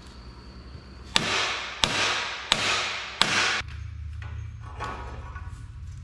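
Four hard hammer strikes, evenly spaced about two-thirds of a second apart and starting about a second in, each with a short noisy ring-out. A steady low hum runs underneath.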